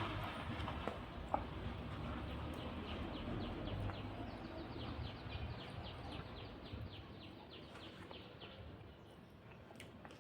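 A long, even run of short high chirps from an animal, about four a second, starting a couple of seconds in and fading near the end, over a low background rumble.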